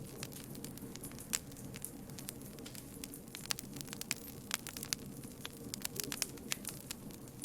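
Campfire crackling, with frequent irregular sharp pops over a steady low rush of burning.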